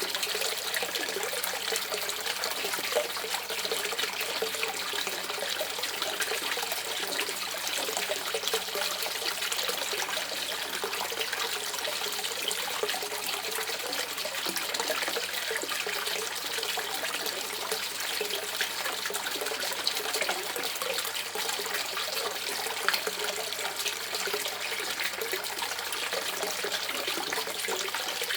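Shallow river water running and gurgling over stones, a steady burble full of small splashes and trickles.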